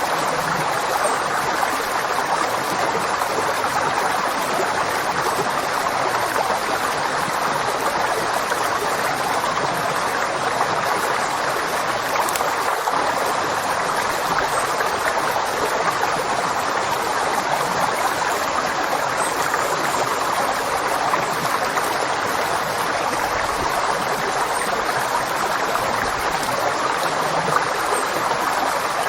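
A river flowing, a steady rushing and gurgling of water.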